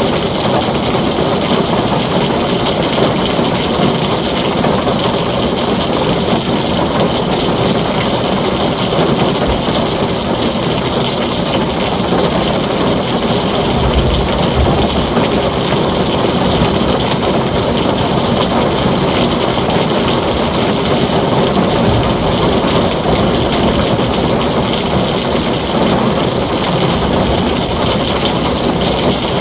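Heavy rain falling steadily on a tin roof, a dense, even hiss.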